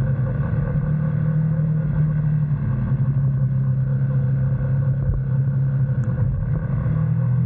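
GS motorcycle engine running steadily under way, with road and wind noise. Its pitch shifts slightly near the end.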